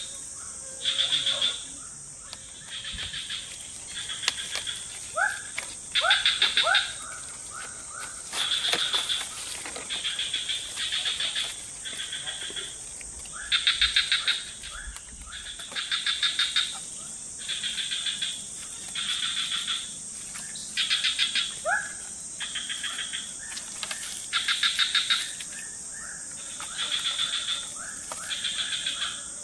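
Forest animal chorus: pulsed trilling calls, each about a second long, repeat every one to two seconds over a steady high insect drone. A few short rising chirps come about five to seven seconds in and again past twenty seconds.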